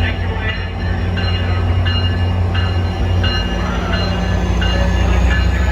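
Train running with a steady low engine hum, while a bell rings in an even rhythm about once every 0.7 seconds.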